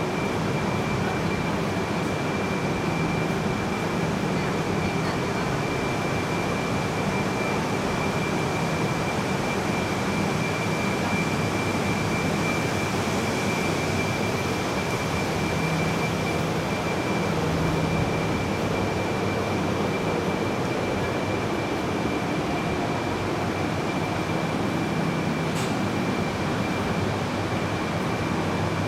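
Steady hum and hiss of a Shinkansen train standing at the platform with its doors open, its onboard equipment running, with a steady high whine over it. A single brief click comes near the end.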